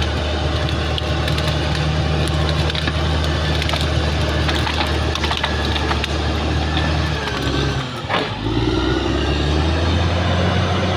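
Caterpillar D6R XL crawler bulldozer's diesel engine running steadily under load, with many sharp cracks and clicks over it in the first half. About eight seconds in, the engine note dips briefly and changes pitch, then picks up again.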